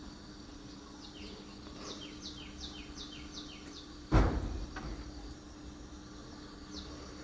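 A bird calling a quick series of about eight short falling notes, over a steady low hum, followed about four seconds in by a sudden loud thump.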